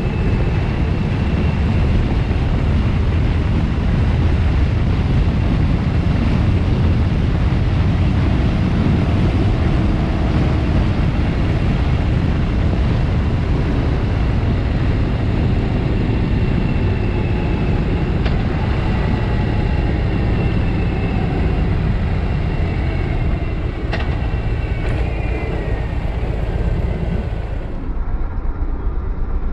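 Harley-Davidson V-twin motorcycle engine running at road speed, heard from the bike-mounted camera with rushing wind over it. Near the end the engine pitch falls as the bike slows into a bend.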